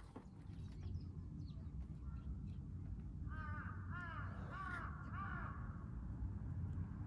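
A crow cawing, about four quick calls in a row midway through.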